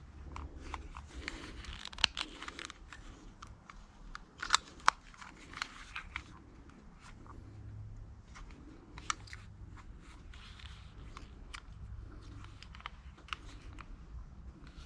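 Scattered light clicks and knocks with soft rustling, a few sharper knocks about two seconds in and near the middle.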